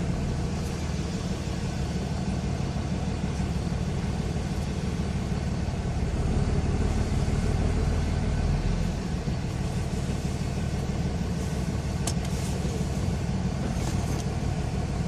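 Cummins 5.9-litre inline-six turbodiesel in a 2006 Dodge Ram Mega Cab pulling steadily under way, heard from inside the cab, with an aftermarket Spectre intake fitted. The engine rumble swells slightly about halfway through, and there is a brief click about 12 seconds in.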